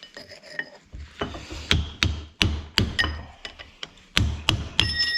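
Hammer blows on metal during brake work on a Fiat 640 tractor: about ten sharp strikes, two to three a second with a short pause midway, the last few leaving a brief metallic ring.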